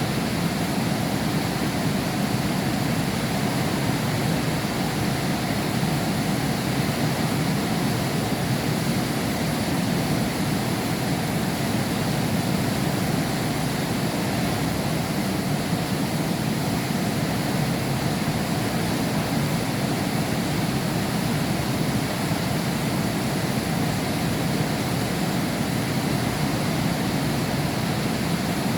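Heavy rain pouring steadily behind a window pane: a dense, even hiss with no thunder and no letting up.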